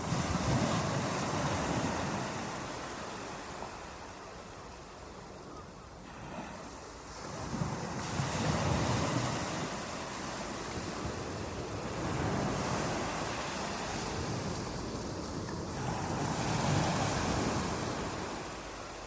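Ocean surf: waves breaking and washing up, each one swelling and then fading, a few seconds apart.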